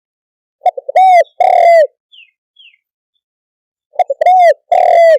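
Spotted dove calling: two loud cooing phrases about three seconds apart, each a few quick short notes followed by two longer arched coos. A faint high chirp sounds twice in the gap between them.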